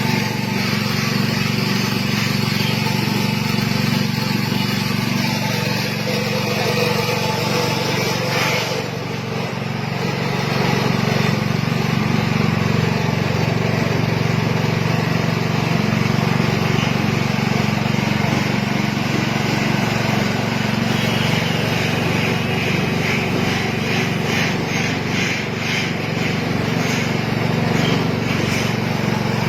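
Motor of an automatic coconut milk pressing machine running steadily with a low, even hum, dipping briefly about nine seconds in.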